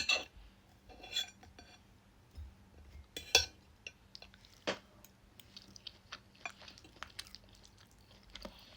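Cutlery clinking and tapping against a plate during a meal: a sharp clink at the start, a few louder clinks further on, and small ticks and scrapes between.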